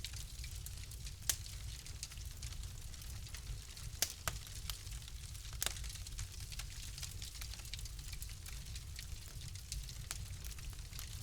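A fire crackling in a fireplace: a steady low rumble and hiss of the burning with scattered sharp pops and snaps, the loudest about a second in, about four seconds in and between five and six seconds in.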